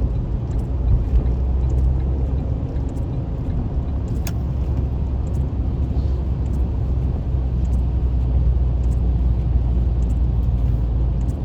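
Steady low rumble of a car driving on a highway, heard from inside the cabin, with a single sharp click about four seconds in.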